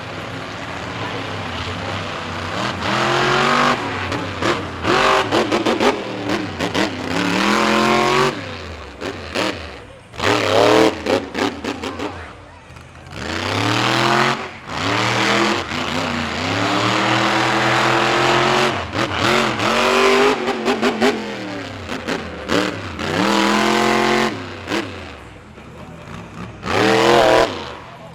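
Monster truck engine revving hard in repeated bursts, its pitch climbing and falling again several times, with choppy stretches where the throttle is blipped on and off.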